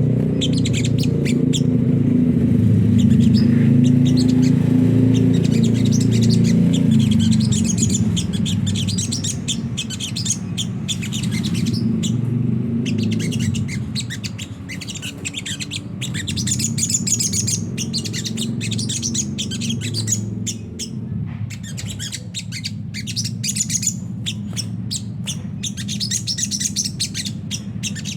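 Sogon bird singing its rough, rapid twittering 'ngriwik' song: quick high chirps in runs broken by short pauses. A low steady rumble sits under it and fades about halfway through.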